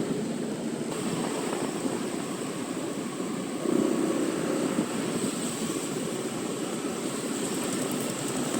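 Motor scooter running at riding speed, its engine drone mixed with wind and road rush, with a thin steady high whine; it swells briefly about four seconds in.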